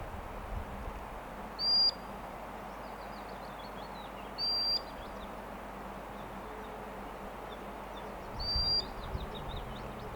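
Sandpiper calling: three loud, high, short whistled notes a few seconds apart, with quick faint downward-sliding notes between them.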